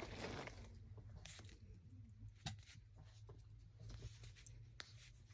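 Faint rustling of packaging and kit items being handled, a short rustle at the start, then a few light clicks and taps.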